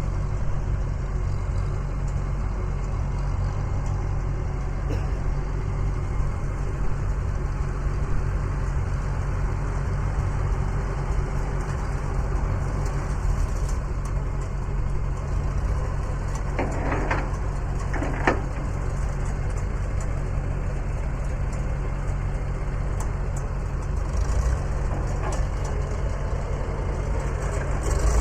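Engine idling steadily. Partway through come two brief high-pitched tones about a second apart.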